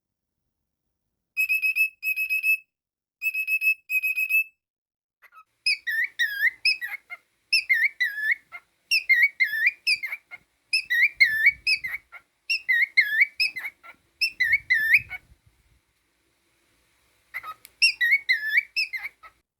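Cockatiel whistling. It starts with clusters of short, level, beeping notes, then from about five seconds in goes into warbling whistled phrases that dip and rise, repeated over and over, with a short pause near the end.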